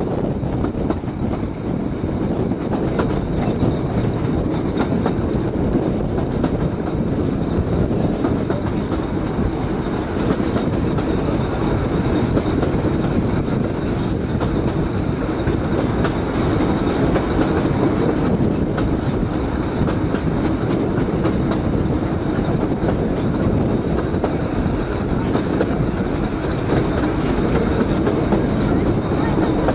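Narrow-gauge passenger train running steadily along the track, heard from a carriage window: a continuous rumble of wheels on rails with occasional faint clicks.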